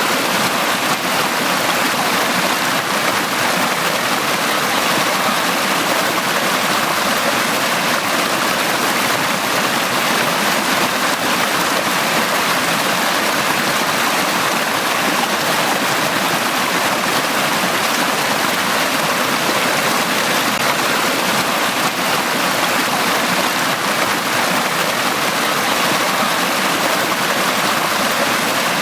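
A brook of running water flowing over stones: a steady rushing and splashing, even throughout.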